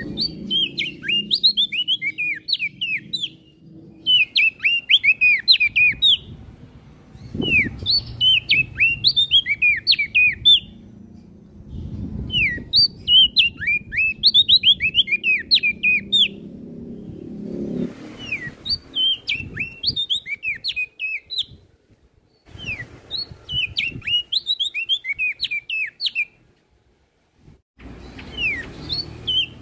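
Prenjak daun songbird singing in repeated bursts of quick, high, downward-slurred chirps, each phrase lasting a few seconds with short pauses between, over a low background rumble.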